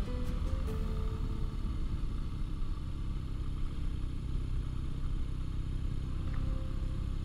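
BMW R nineT Urban G/S air/oil-cooled boxer-twin engine running at a steady cruise, with a heavy low rumble and wind rush on the bike-mounted microphone.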